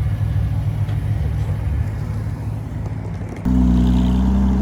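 Car engines running at idle with a low, steady rumble. About three and a half seconds in, the sound switches abruptly to a louder, steady engine drone.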